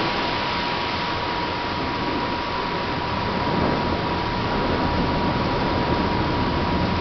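Steady hiss of heavy rain during a thunderstorm, with a thin steady high tone sounding through it.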